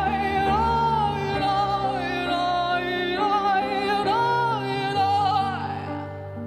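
A solo singer holds long, wordless notes with vibrato, rising briefly twice, over a sustained instrumental backing. The voice fades out near the end, leaving the backing's held notes.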